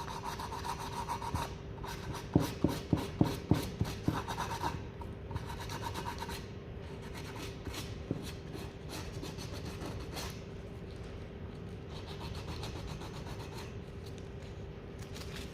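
P180 abrasive paper rubbed back and forth over masking tape on the edge of an engine component's flange, cutting the tape to a clean edge. A run of quick rasping strokes comes a couple of seconds in, then softer scratching that dies away about ten seconds in.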